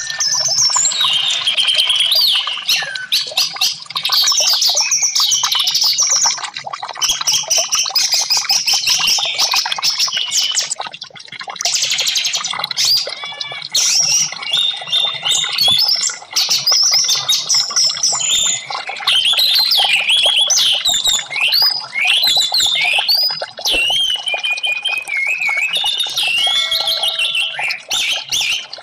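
Orange-headed thrush (anis merah) singing: a continuous stream of quick, varied whistled phrases and trills, high-pitched, with only brief pauses.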